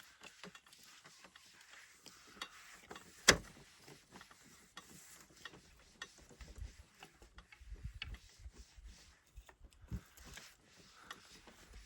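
Scattered clicks and light knocks, as of objects being handled, with one sharp knock about three seconds in and another near ten seconds.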